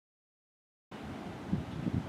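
Silence for about the first second, then outdoor ambience cuts in suddenly: a steady hiss with low wind rumble buffeting the microphone.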